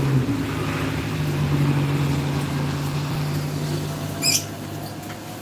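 A vehicle engine runs steadily, its pitch dipping near the start and the sound fading toward the end. A brief high chirp comes about four seconds in.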